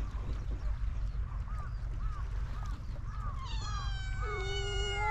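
A cat gives a long, drawn-out meow starting about three and a half seconds in, its pitch dropping at the end. Underneath are a short chirping call repeated about twice a second and a steady low rumble.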